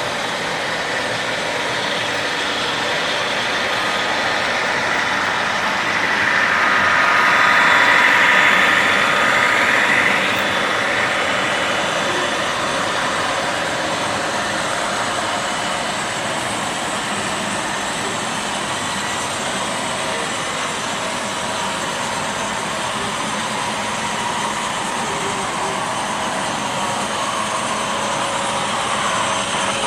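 HO scale model train running on the layout: a steady motor whine and wheel noise on the rails. It grows louder about six seconds in, holds a few steady tones, then falls away as the train passes around ten seconds in.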